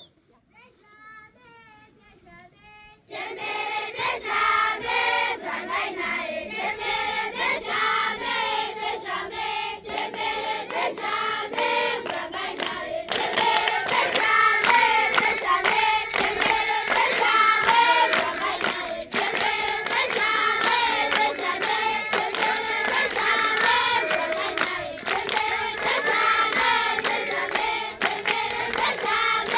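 A lone voice starts a traditional rain-dance song, and about three seconds in a group of children's voices joins in, singing together over rhythmic hand clapping. The singing and clapping get louder from about thirteen seconds in.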